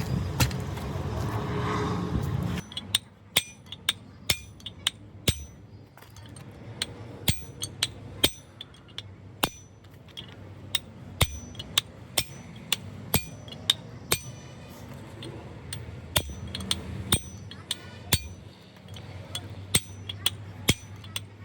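A hammer striking metal parts of a truck gearbox: a long series of sharp, irregular blows about one a second, some with a short metallic ring. A louder low noise cuts off about two and a half seconds in.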